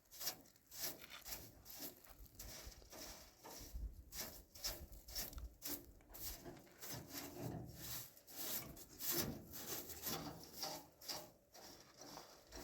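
Rhythmic rasping strokes, about two a second, of hand work scraping or sawing at a rough material.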